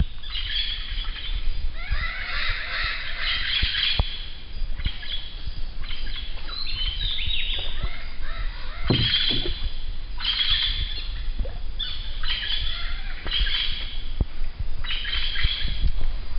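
Several birds chirping and calling in repeated busy bursts, over a steady low rumble, with a few faint knocks.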